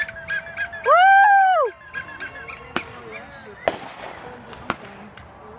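A loud honking tone that swoops up and back down in pitch, lasting under a second, over a quick run of short chirping pulses. It is followed by three sharp firework bangs about a second apart, each with a trailing echo.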